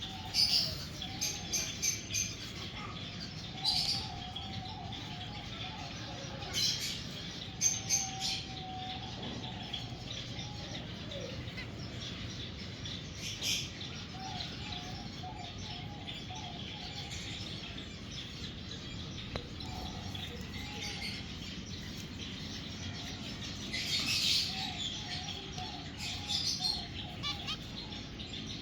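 Finches chirping: short, sharp chirps come every second or two, bunched near the start and again near the end, with a lower wavering call that comes and goes between them.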